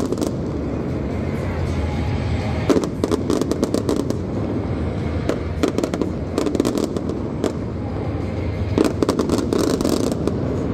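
Aerial fireworks display: shells bursting and crackling in quick clusters of sharp pops, over a steady low background.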